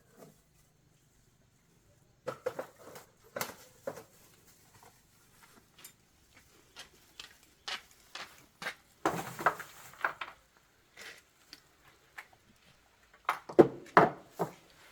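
Irregular knocks and clatter of hard objects being handled, in scattered groups, the loudest near the end.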